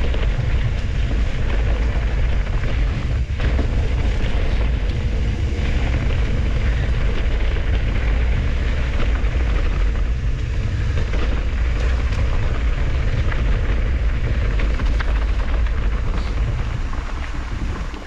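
Wind rumbling over the camera microphone with tyre and trail noise from a mountain bike being ridden, steady and loud throughout.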